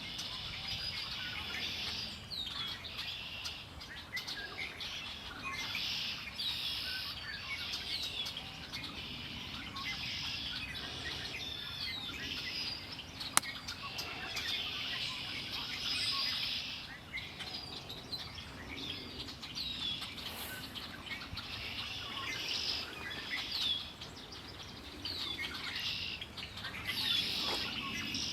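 A chorus of songbirds singing, many high chirping and whistled songs overlapping with no break. One sharp click stands out about halfway through.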